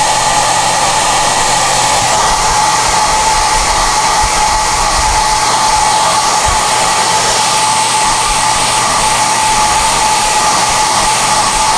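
SOUNATE high-airflow hair dryer running steadily: a constant rush of air with a steady high whine.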